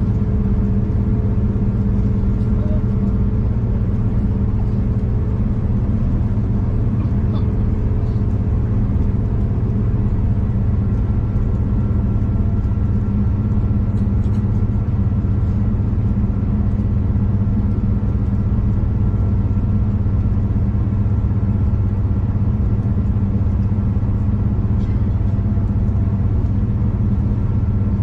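Steady rumble of a V/Line passenger train running along the line, heard from inside the carriage, with a low, even drone.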